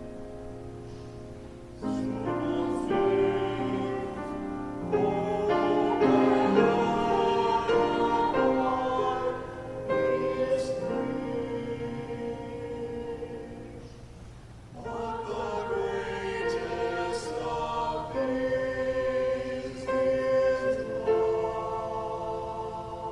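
Choir singing with piano accompaniment, in sustained phrases with a short break about fourteen seconds in.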